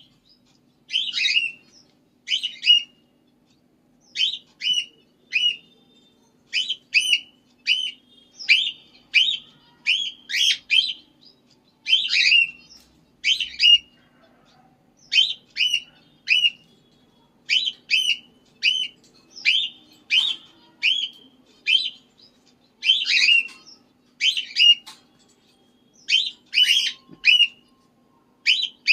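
Pet parrot chirping over and over, short sharp calls mostly in quick pairs, a pair or two every second with a few short pauses. A faint steady low hum runs underneath.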